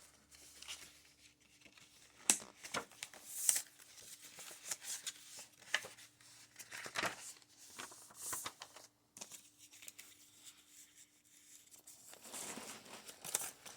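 Pages of a thick handmade paper journal being handled and turned: scattered soft rustles and crinkles of mixed paper.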